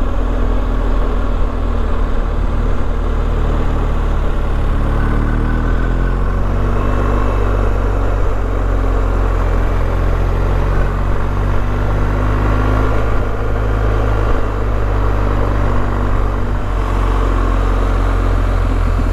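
BMW R1250GS boxer-twin motorcycle engine running steadily while riding, with wind and road noise.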